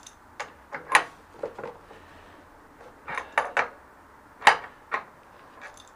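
Metal tools knocking and clinking against a spin bike's parts as a stuck part is worked on, an irregular series of sharp clinks with two louder knocks, about a second in and about four and a half seconds in.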